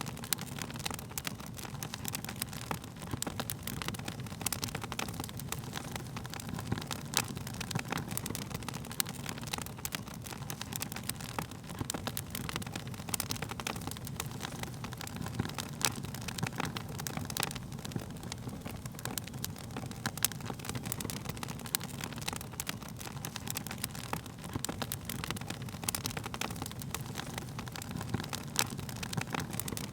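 Wood fire crackling: a steady low rumble of flames under many quick, irregular pops and snaps from the burning wood.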